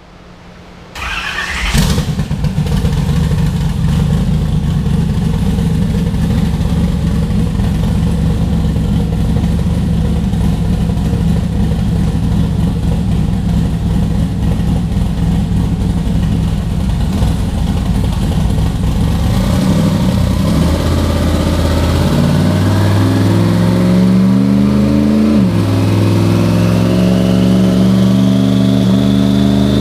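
Twin-turbocharged 427 LSX V8 race engine running loud on a chassis dyno. It holds a steady, rough note for a while, then climbs in pitch under full throttle on a dyno pull, with one sharp dip in pitch at a gear change before climbing again.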